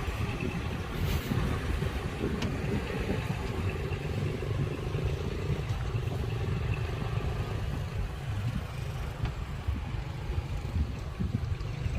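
Heavy earthmoving machine's diesel engine running steadily: a continuous low rumble with a faint steady whine above it and a few light clicks.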